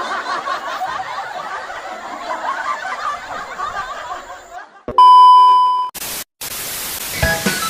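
People laughing and snickering. About five seconds in, a steady one-second electronic beep cuts in, followed by a short burst of hiss-like noise, and electronic dance music starts near the end.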